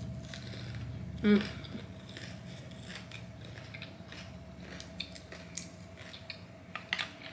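Close-up chewing of deep-fried crunchy sushi roll, with a short hummed voice sound about a second in. Several sharp clicks of wooden chopsticks come near the end.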